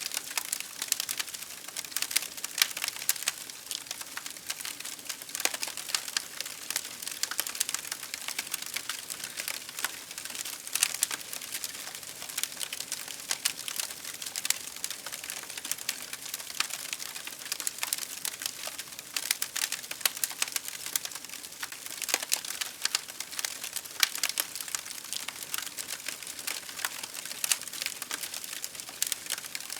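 Wood fire crackling: a steady hiss under dense, irregular pops and snaps.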